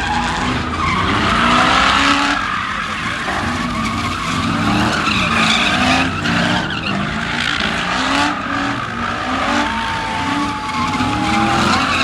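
Car engine revving hard, its pitch rising and falling again and again, while the tyres spin and screech on the tarmac, as in car spinning. A thin high squeal stands out near the end.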